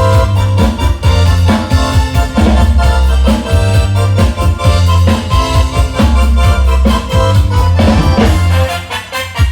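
Drums and an electronic organ playing an instrumental together: rapid drum strikes over sustained keyboard chords and a heavy bass, easing briefly near the end.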